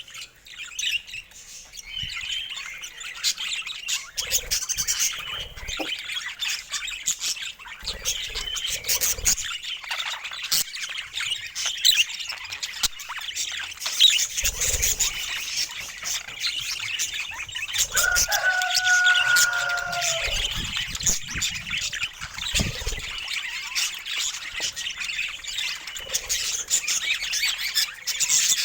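A flock of budgerigars chattering and chirping continuously, with occasional soft low thumps.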